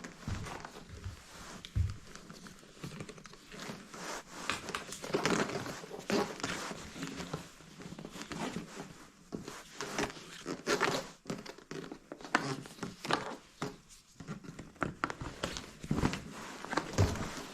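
Irregular rustling and crinkling, like plastic or paper being handled, with scattered small knocks and clicks, in a small room.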